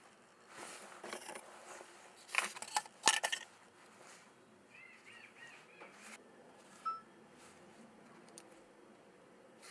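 Sharp clicks and clatter of small parts being handled during work on a scooter, loudest in a quick cluster about two to three seconds in. A short bird chirp about five seconds in.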